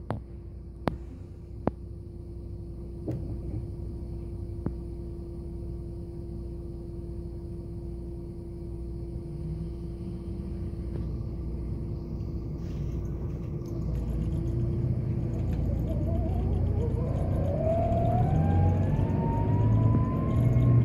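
Scania K410B bus's 13-litre inline-six diesel running with a steady low rumble and hum, with a few sharp clicks in the first seconds. About two-thirds of the way in, a rising whine joins and the sound grows louder as the bus gathers speed.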